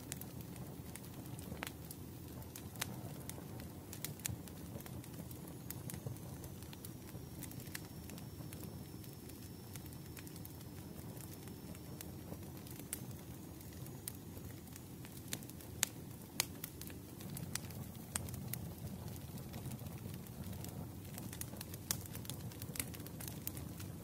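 Wood fire crackling: a steady low rumble of burning with frequent sharp pops and snaps scattered at irregular intervals.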